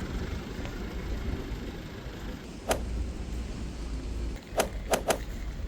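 Outdoor street background noise: a steady low rumble, like traffic, with four sharp clicks, one about halfway through and three close together near the end.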